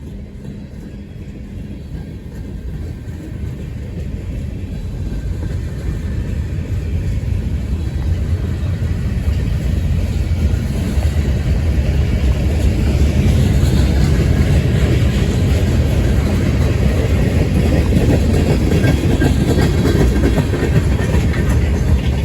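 Diesel-hauled CSX manifest freight train approaching and passing. Its low rumble grows steadily louder over about the first twelve seconds, then holds steady as the train rolls by.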